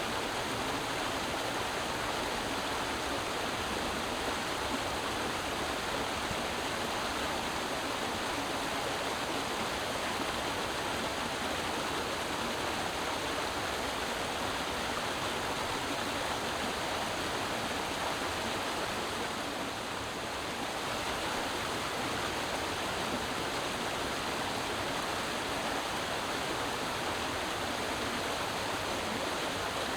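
Creek water flowing and splashing in a steady rush.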